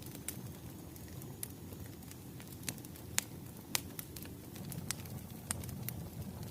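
Wood fire burning, with a steady low rush and irregular sharp crackles and pops of burning logs.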